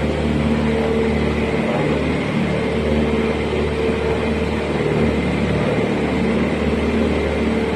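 Motorboat engine running at steady speed, with a constant rushing noise of water and air over it.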